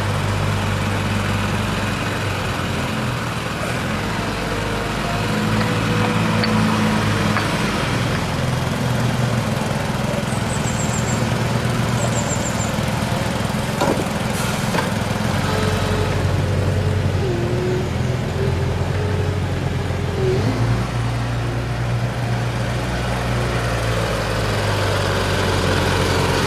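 Diesel engine of heavy road-construction machinery running, a steady low drone that shifts pitch a few times, over continuous mechanical noise.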